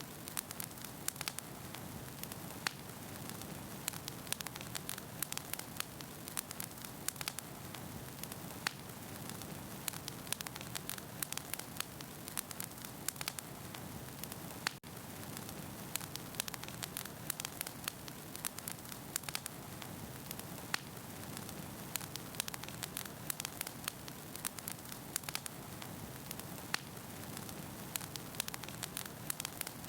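Wood fire burning in a fireplace: a steady hiss with frequent irregular sharp pops and snaps from the burning logs, and a momentary drop about halfway through.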